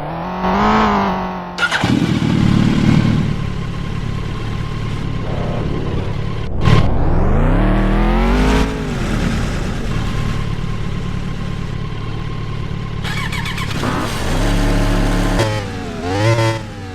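Motorcycle engine running and revving, its pitch rising and falling several times as it speeds up and slows, with steady stretches between and a sharp click about seven seconds in.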